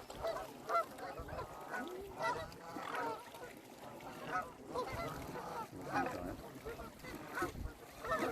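A flock of mute swans calling over one another with many short, nasal honks, several a second.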